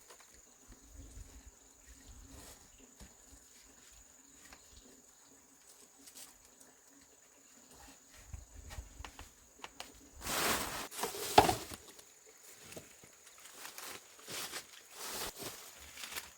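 A faint, steady high insect trill under scattered rustling and footstep-like noises, with one loud rustling burst lasting about a second and a half, about ten seconds in.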